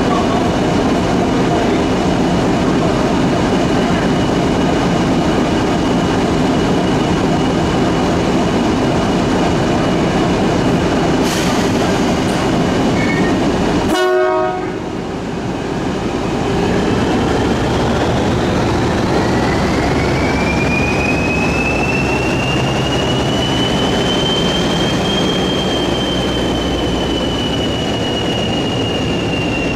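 Railway sounds at a station. For the first half a CP 1400-class locomotive's English Electric eight-cylinder diesel runs steadily at idle. About halfway there is a short sharp sound. Then an electric train comes onto the near track with a long whine that rises in pitch and levels off.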